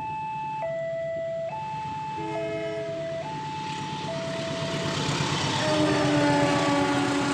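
Level crossing warning alarm sounding its alternating two-tone signal while a train approaches. The locomotive's multi-tone horn sounds briefly about two seconds in, then again for longer from about five and a half seconds, as the train's noise grows louder.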